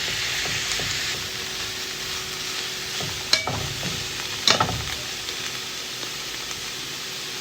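Chicken gizzards and chopped vegetables sizzling in a hot pan as they are stir-fried, with a steady hiss. Two sharp knocks of the stirring utensil against the pan come about three and four and a half seconds in.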